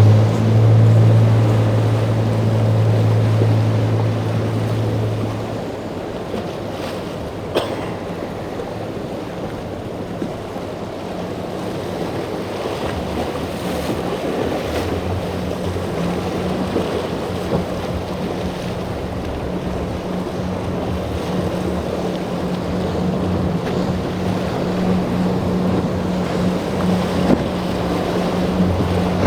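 Boat engines running amid the rush of waves and wind noise on the microphone. A deep, steady engine drone fades away after about five seconds, and a higher engine tone builds through the second half.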